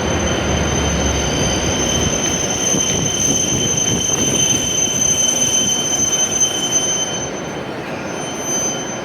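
W7 series Shinkansen train running slowly into the platform, with its rumble and a steady high-pitched squeal that fade about seven seconds in as the train comes to a stop.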